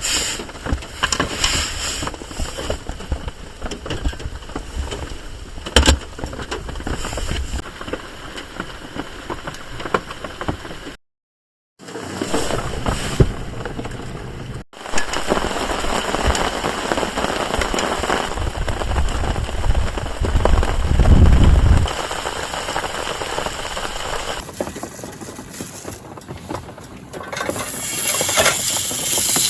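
Rain falling on a car-side tarp, a steady patter heard across several cut-together clips, with a brief dropout about eleven seconds in.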